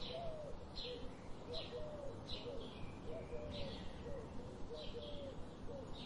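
Birds calling: a short high chirp repeated regularly, a little more than once a second, over softer, lower, wavering notes.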